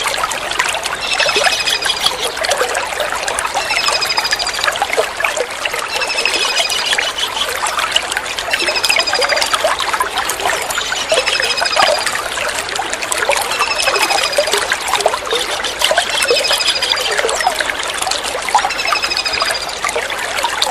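A kingfisher's short, rapid trilled call, repeated about every two seconds, over a steady trickle of running water.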